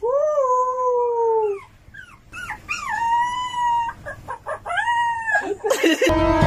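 Small white puppy howling: several long, high, wavering howls, each sliding slightly down in pitch, with short yips between them.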